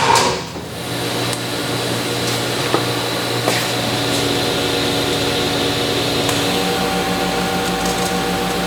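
Steady whir of a motor-driven shop tool running continuously, with a constant whine over a noisy hum.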